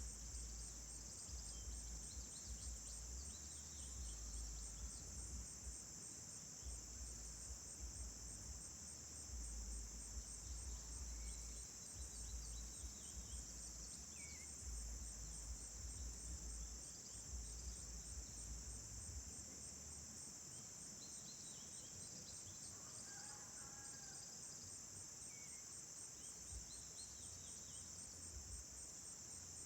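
Steady, high-pitched chorus of crickets, with faint bird chirps scattered through it. A low rumble comes and goes during the first two-thirds.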